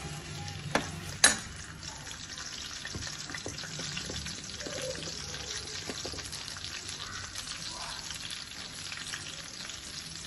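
Grated ginger and garlic sizzling in hot oil in an aluminium kadai, with a steady crackle of many fine pops: the first stage of a tadka. Two sharp metallic clinks of the ladle against the pan come about a second in.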